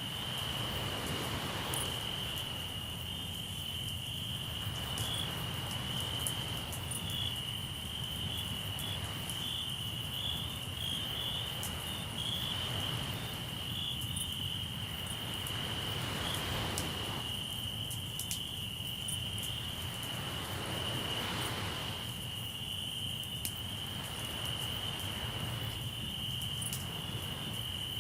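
Crickets trilling steadily in one high, unbroken band, over the wash of sea waves that swell up about every four seconds. Faint crackles from a campfire come here and there.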